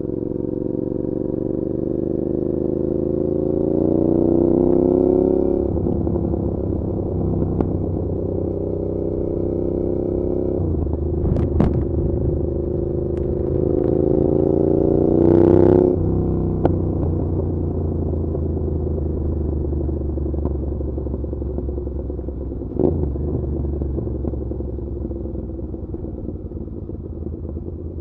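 A Suzuki SV650's V-twin engine through an SC-Project exhaust, heard while riding. The revs climb for about five seconds and fall away, climb again about halfway through and drop sharply, then the engine settles to a steady cruise. A few sharp clicks and pops come in between.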